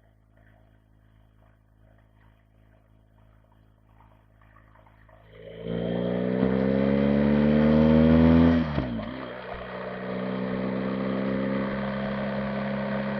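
BMW R 1250 GS boxer-twin engine, faint and steady at first, then pulling away about five seconds in. Its pitch rises for about three seconds, drops sharply at a gear change, and the engine then runs on steadily under way.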